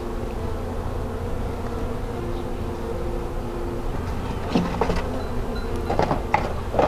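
Honeybees buzzing around an open hive, a steady hum with several held tones. A few short knocks come in the second half, as frames or tools are handled.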